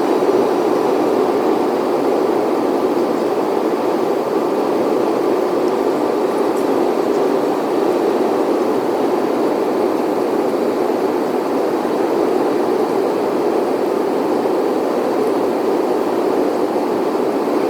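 Steady roar of airliner cabin noise aboard an Airbus A380 on its landing approach, an even rushing sound with no change in pitch or level.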